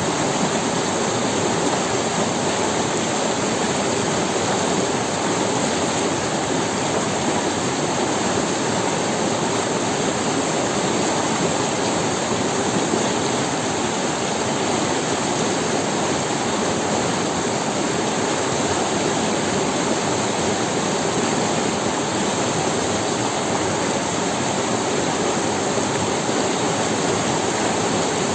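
Steady rush of a forest river running over stones, with no breaks or changes in level.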